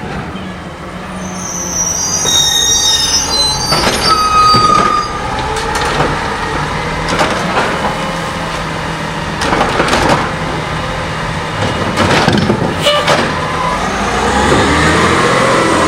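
Compressed-natural-gas automated side-loader garbage truck running, with a high squeal about two to four seconds in and several sharp metallic clanks through the middle; near the end the engine pitch rises.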